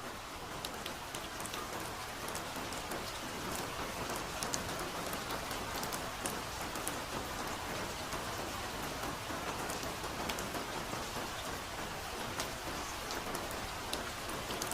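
Soft forest rain falling steadily, with frequent sharp ticks of single drops landing close by.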